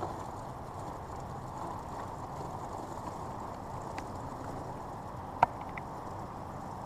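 A Kyosho Blizzard RC snowcat's tracks and electric motors running steadily over snow, with a sharp click about five and a half seconds in.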